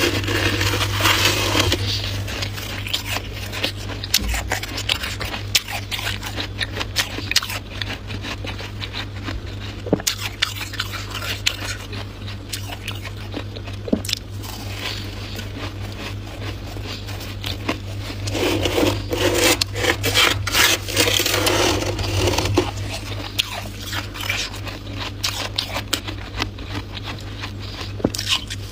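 Freezer frost being scraped up and bitten, a steady run of crunching and crackling with denser, louder stretches of crunching at the start and again about two-thirds of the way through. A steady low hum runs underneath.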